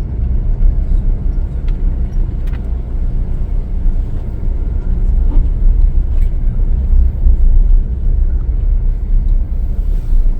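Steady low road rumble and engine noise inside a moving tour vehicle, with a few faint ticks and rattles.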